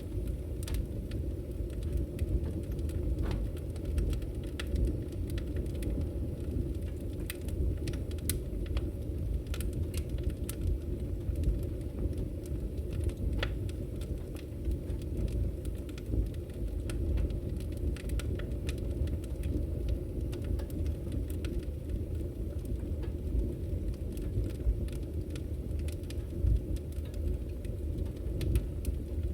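A wood fire burning: a steady low rumble of flames with irregular sharp crackles and pops from the burning logs.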